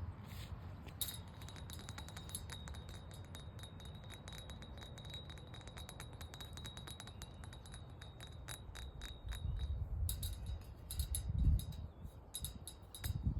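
Rapid light tapping with many small clicks, over a steady high-pitched tone that starts about a second in and drops out near the end. There are bursts of low rumble from wind on the microphone late on.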